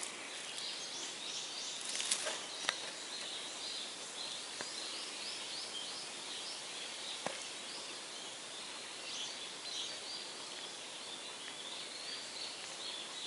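Birds chirping repeatedly over a steady outdoor hiss, with a few faint clicks about two seconds in and again near the middle.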